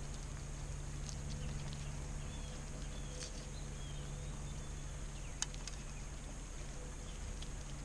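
Outdoor backyard ambience at a bird feeder: faint bird chirps over a steady low hum, with a few sharp clicks, one louder about five and a half seconds in.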